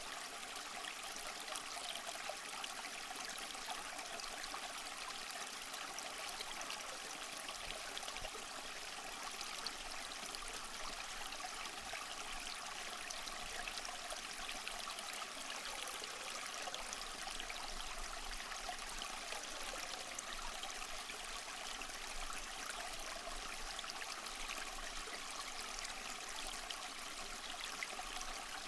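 Small waterfall splashing and trickling steadily over moss, a constant even rush of water with no lows.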